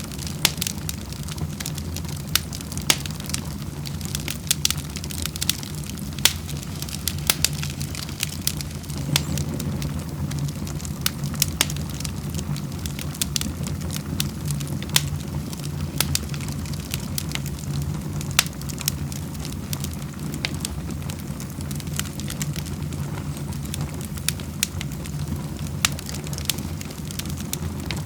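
Wood fire crackling in a fireplace: irregular sharp pops and snaps, several a second, over a steady low background.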